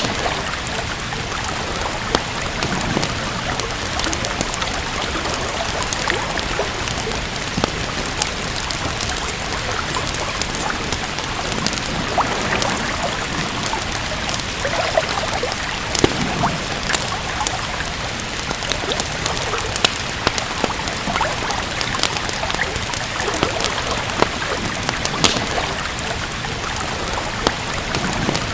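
Steady rain hiss with scattered sharp pops and crackles of a wood fire over it.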